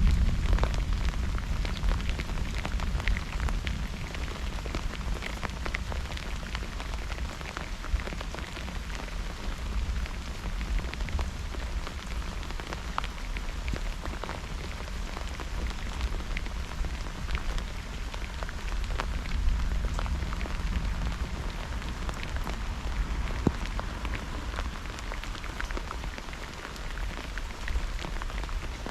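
Steady rain falling during a thunderstorm, with many close raindrops ticking over a continuous low rumble. The rumble is loudest at the start and dies away over the first few seconds, like the tail of a thunderclap.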